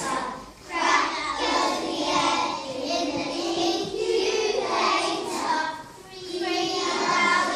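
Children singing together in a group, with short breaks between phrases about half a second in and again around six seconds in.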